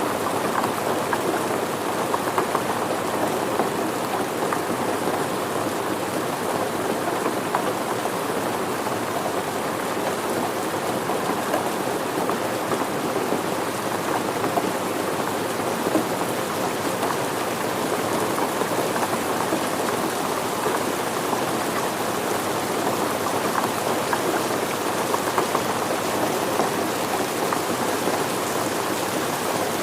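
Steady rain falling and pattering on surfaces, an even hiss with scattered individual drop hits.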